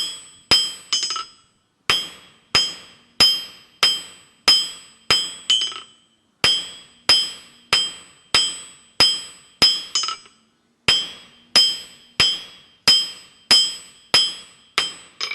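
Blacksmith's hammer striking hot 3/8 inch square steel stock on an anvil, drawing out a taper by working it square. The blows are even, about one and a half a second, each ringing, with a few short breaks in the rhythm.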